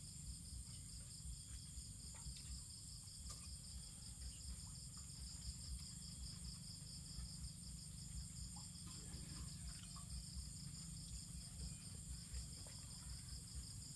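An insect chorus of crickets trilling steadily in high, pulsing tones, with a low rumble underneath and a few faint clicks.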